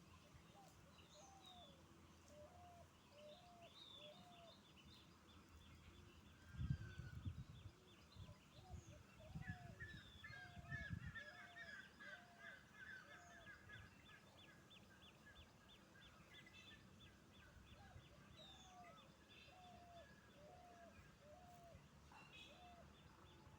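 Faint birds calling. A low call is repeated in runs of about two a second, over scattered higher chirps and a fast trill. A few low rumbles come about a third of the way through.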